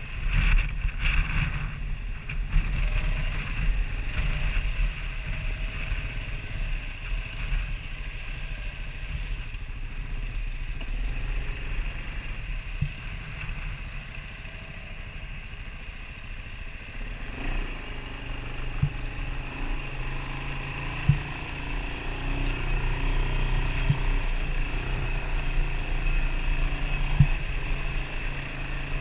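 Off-road vehicle engine running steadily under way, louder for the first few seconds and again later on, with a few sharp knocks in the second half.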